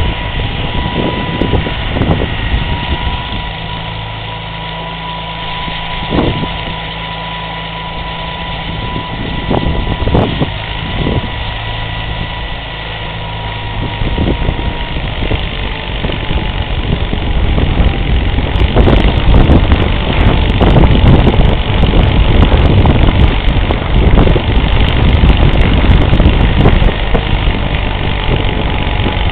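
Case 446 garden tractor engine running with its snowblower attachment, a steady engine note with a thin whine above it. About two-thirds of the way in it grows louder and rougher.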